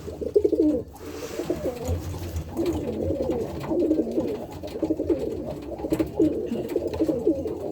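Many racing pigeons cooing in a loft. Their coos overlap continuously.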